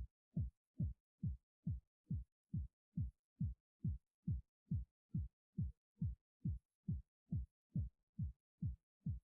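Background music reduced to a lone deep kick drum beating steadily, a little over two thumps a second, each thump dropping in pitch.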